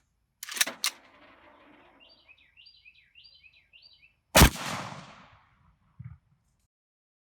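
A single shot from a custom Mosin-Nagant bolt-action rifle about four seconds in, sharp and loud with an echoing tail that dies away over about a second. A couple of clicks come just before the one-second mark.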